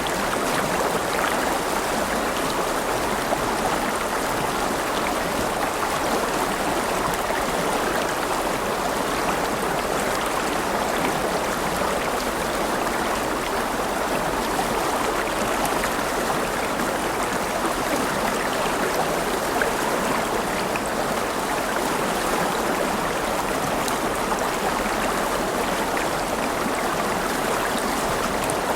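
River water running over stones, a steady babbling rush with fine splashes and trickles.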